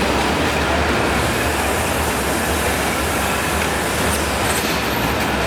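Loud, steady arena din with a low rumble underneath and no clear voices standing out.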